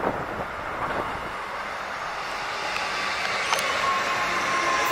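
Electric suburban train approaching and passing on the near track, a steady rumble that slowly grows louder, with a few sharp clicks from the wheels over the rails. A steady high whine comes in about three and a half seconds in.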